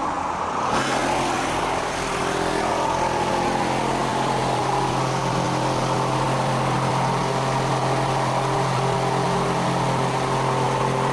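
Large wind-machine fan on a film set starting up less than a second in, then running steadily: a rushing blast of air over a constant motor hum.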